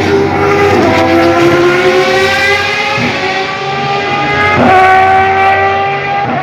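A historic Formula One car's engine accelerating hard. It climbs in pitch and drops at each of about three upshifts, roughly every one and a half to two seconds.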